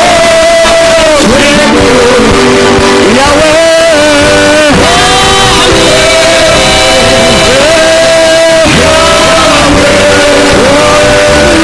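Loud worship song: a voice sings long held notes that slide between pitches, over musical accompaniment.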